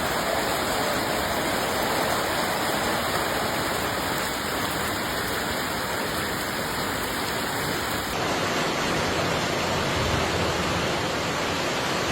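Steady rush of floodwater, a dense even noise with no voices, changing slightly in tone about eight seconds in.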